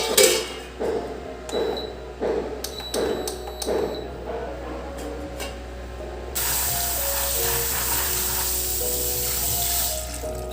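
Water running from a tap for about four seconds, starting a little past the middle, after a series of short, evenly spaced strokes, all over background music.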